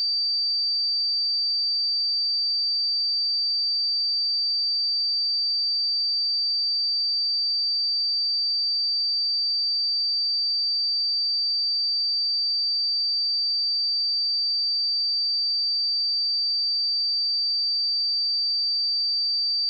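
A steady 4646 Hz sine-wave test tone: one pure high-pitched tone held at a constant pitch and level.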